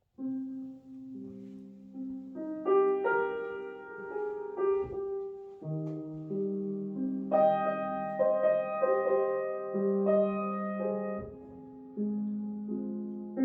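Solo piano playing slow, sustained jazz chords, a new chord struck every second or two.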